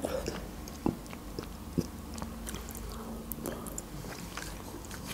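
A person chewing food close to the microphone: soft, scattered mouth clicks, with a couple of sharper ones about one and two seconds in.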